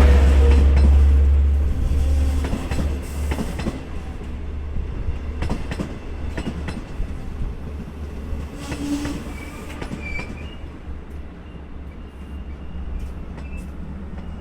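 Two EMD DM30AC diesel locomotives pulling a train of Kawasaki C3 bilevel cars into a station. The locomotives' heavy low diesel rumble passes in the first two seconds. The cars then roll by with repeated wheel clicks over rail joints and brief brake squeal, growing quieter as the train slows to a stop.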